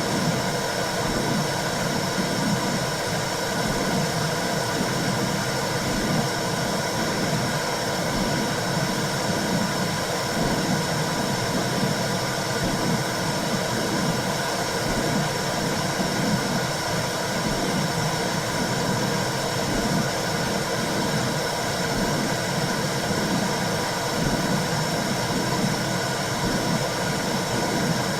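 Womb sound for calming a baby: a steady, loud whooshing noise with a low, uneven pulsing throb underneath, like blood flow heard from inside the uterus.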